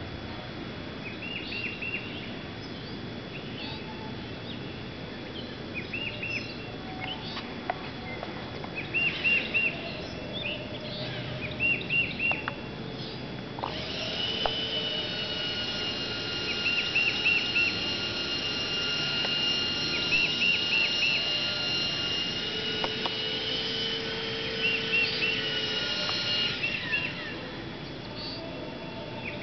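A songbird repeating a short phrase of four or five quick high notes every few seconds. About halfway through, a steady high whine starts up underneath and stops a few seconds before the end.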